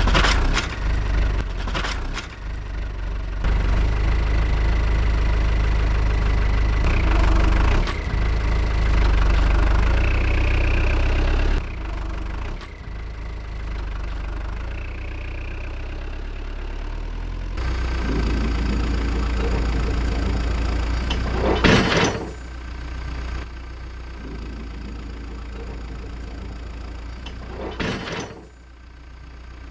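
Diesel engine of a loader machine running under load while its front loader works a large log, the engine note and level shifting several times. Two short sharp sounds, about 22 s in and near the end, stand out above it.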